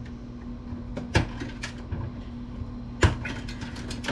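Wire snips cutting computer wires at their connectors: a few separate sharp clicks, the loudest about three seconds in, over a steady low hum.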